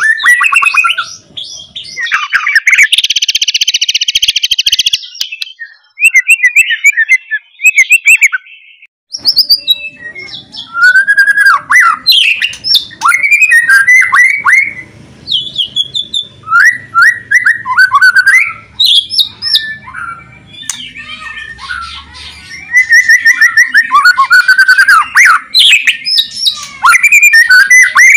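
White-rumped shama (murai batu) singing loudly in a continuous run of varied whistled, slurred phrases. About three to five seconds in comes a harsh, fast crackling rattle, the 'kretekan' call.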